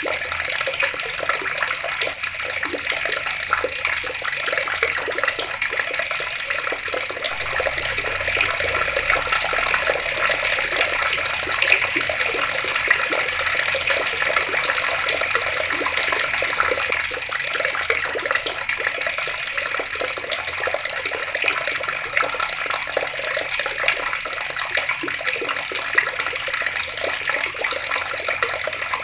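Water running steadily from an outdoor tap and splashing, a little louder for a while in the middle.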